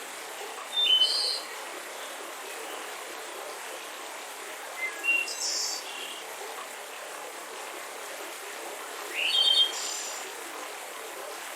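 Mountain river running steadily, with songbirds chirping over it in three short phrases of quick rising notes: about a second in, near the middle, and near the end.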